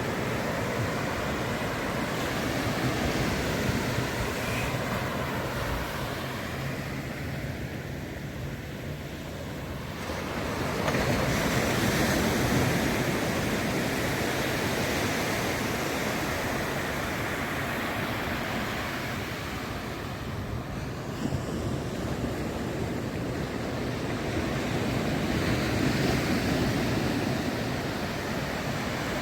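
Ocean surf breaking and washing up the beach, a continuous rush that swells louder about ten seconds in and again near the end.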